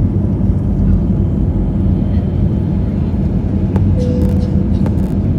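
Steady low drone of an Airbus A320neo's engines heard inside the cabin during the climb after take-off, with a hum underneath. Two faint clicks and a brief faint tone come near the end.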